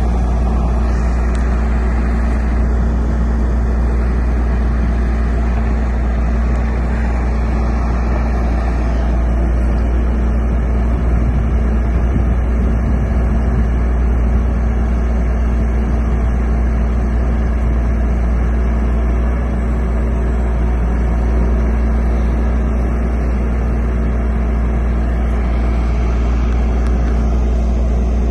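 Bucket truck's engine running steadily, a constant low rumble with a steady hum and no change in speed.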